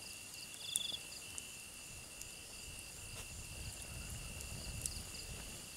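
Night insects chirring steadily in a high, even tone, with pulsed chirps above it. A few faint crackles from a campfire.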